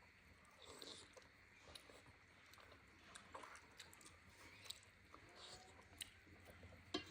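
Faint chewing and small wet mouth clicks of someone eating momos, scattered and irregular over a low hum.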